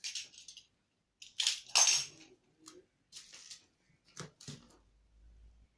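Packing noises as drills and packing material are handled: a few bursts of rustling, the loudest about one and a half to two seconds in, then two sharp knocks of hard items being set down.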